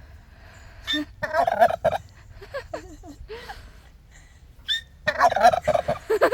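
Farm fowl calling in two bursts of rapid, wavering calls: one about a second in, and a louder one from about five seconds in.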